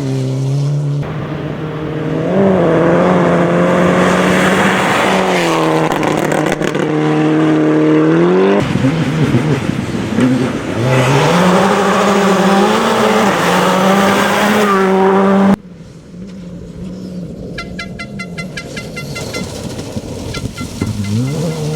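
Rally car engines at full throttle, revving up and dropping through gear changes, in several clips cut together. A quieter stretch with a more distant engine follows near the end.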